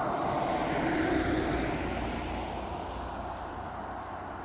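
A vehicle passing by: a rushing noise that swells to its loudest about a second in, then slowly fades away.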